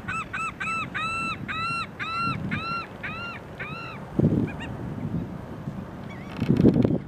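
A bird calling off-screen: a quick series of about a dozen short, arched call notes, roughly three a second, fading out about three and a half seconds in. Wind rumbles on the microphone about four seconds in and again, loudest, near the end.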